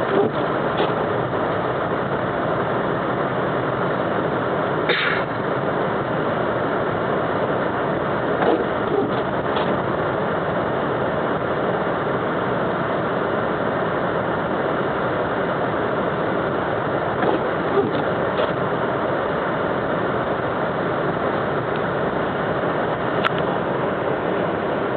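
Steady road and engine noise of a car driving on a snowy road, heard from inside the cabin, with a few faint knocks.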